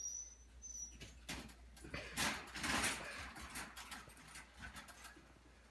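A dog moving about in its cage: a run of scrabbling, scratchy clicks and rustles, loudest about two to three seconds in, after a couple of brief high squeaks at the start.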